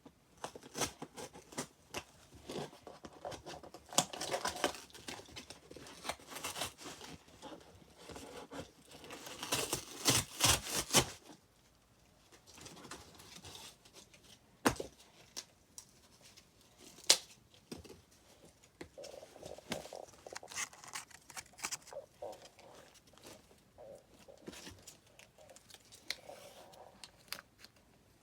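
Cardboard and tape being handled and torn: scattered rustling and sharp clicks, with longer tearing stretches a few seconds in and again about ten seconds in.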